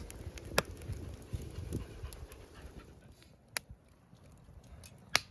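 Wood campfire crackling, with three sharp pops from the burning wood spread across the few seconds.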